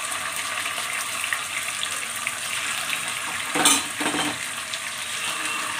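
Marinated chicken pieces sizzling steadily in hot oil in a kadhai. There is a short, louder burst of spluttering about three and a half seconds in as another piece is dropped into the oil.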